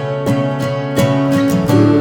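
Instrumental passage of a band's song: strummed guitar chords over a steady beat, with no singing.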